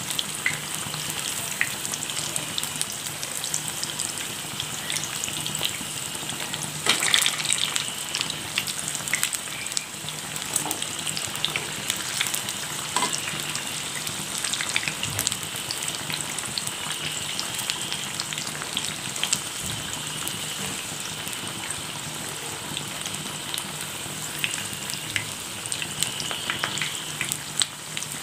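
Gram-flour-battered, egg-stuffed okra deep-frying in hot oil in a pan: a steady sizzle with constant crackling, and a briefly louder burst about seven seconds in.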